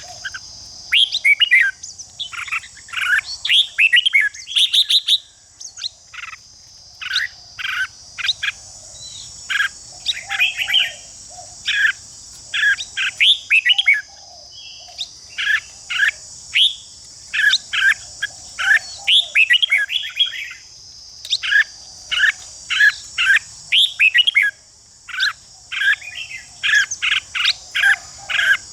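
Red-whiskered bulbuls singing in fired-up, competitive fashion: short bright chirping phrases follow one another quickly and closely. A steady high hiss runs behind them.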